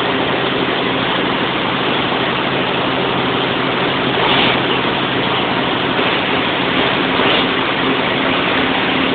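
Large 1000 kW diesel generator set engine running steadily: a loud, even mechanical din over a constant low hum.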